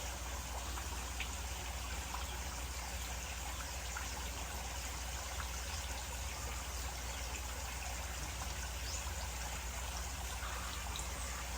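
Pond water spilling steadily out through an overflow pipe, a continuous trickling stream, with a low steady hum underneath.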